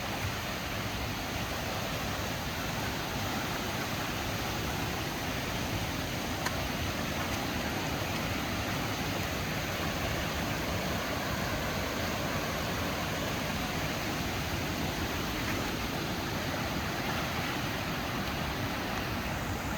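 Steady rush of water, an even hiss that holds without letup, with one faint tick about six and a half seconds in.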